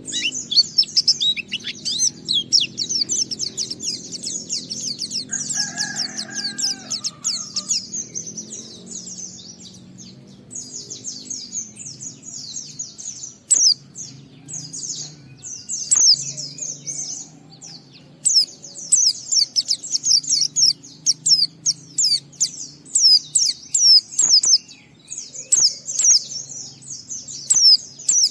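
Pleci (white-eye) singing a fast, high twittering warble in long runs broken by short pauses, the continuous 'ngalas' song kept to make other pleci sing.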